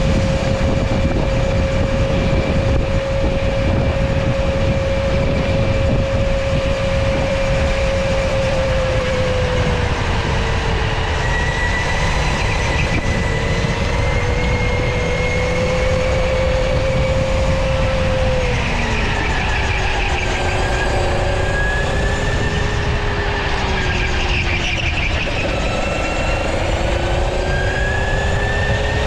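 Electric go-kart motor whining while driving on a track. The pitch holds steady for a while, then drops and climbs again several times as the kart slows and speeds up through corners. A constant low rumble runs underneath.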